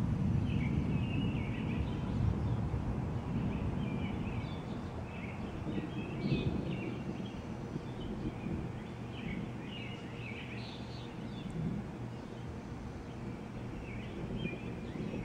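Distant thunder rumbling low, strongest in the first few seconds and then easing, with scattered high chirps over it throughout.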